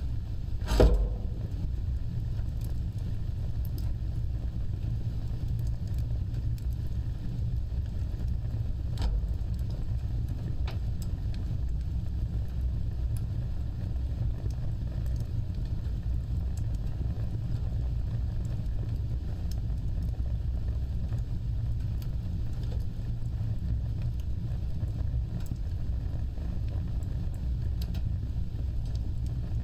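Wood fire burning with a low, steady rumble and scattered crackles, with a sharp loud pop about a second in and a smaller pop near nine seconds.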